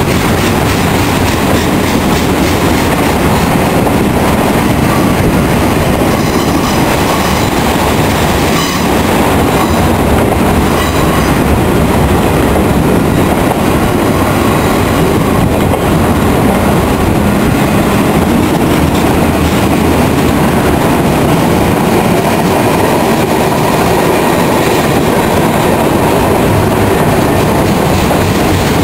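Freight train rolling past, a steady noise of its wheels on the rails.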